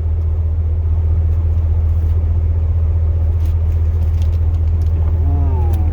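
2002 Chevrolet Silverado's 8.1-litre big-block V8 running steadily, a low drone heard from inside the cab.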